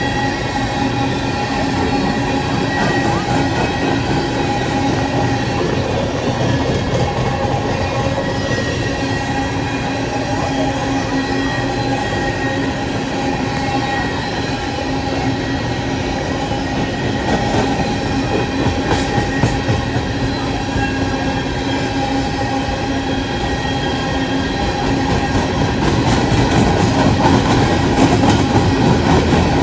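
Freight train of open-top hopper cars rolling past: the steady rumble and rattle of steel wheels on the rails, with a few thin steady whining tones running through it. Sharper clacks come in the second half, and it grows a little louder near the end.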